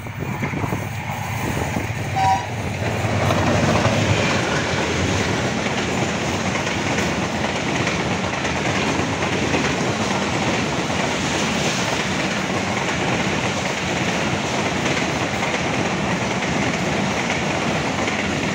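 Diesel-hauled express passenger train running through the station at speed: a short horn note about two seconds in, then the steady rush and clatter of the coaches' wheels on the rails as the train passes close by.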